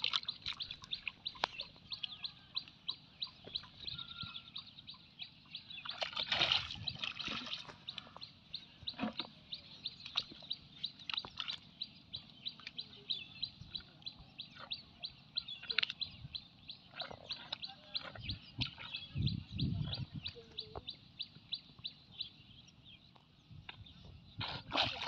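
A bird chirping in a fast, even series of short high notes, about three a second, with now and then the wet squelching of hands digging in mud.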